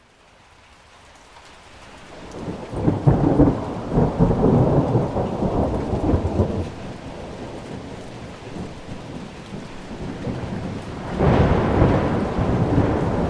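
Thunderstorm: rain fading in from near silence, then rolling thunder that peaks about three seconds in and dies away by about seven seconds, with a second peal of thunder breaking about eleven seconds in over the steady rain.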